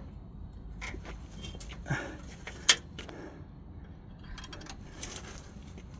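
Scattered metallic clinks and clicks of hand tools and sockets, the sharpest nearly three seconds in.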